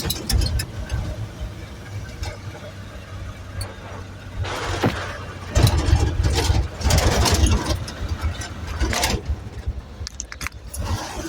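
1963 Chevrolet dump truck's engine running with a steady low rumble. Louder noisy stretches come about halfway through, one brief and one lasting several seconds.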